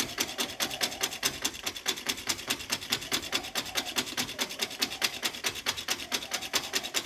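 Rapid, even rasping strokes on wood, about eight a second, from a small wooden part being filed or sanded by hand.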